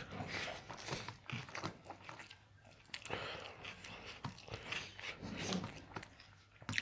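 Close-up eating sounds: irregular chewing and wet mouth clicks.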